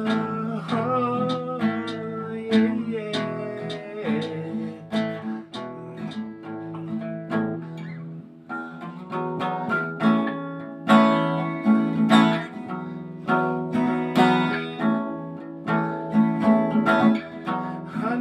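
A song's instrumental break on strummed acoustic guitar, with the last sung note held and wavering over the first few seconds before the guitar carries on alone, its strums growing stronger in the second half.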